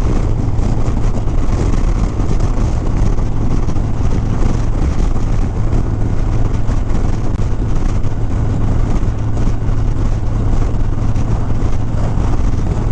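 Harley-Davidson Sport Glide's Milwaukee-Eight V-twin running at a steady cruising speed, with a constant low hum under a steady rush of wind and road noise.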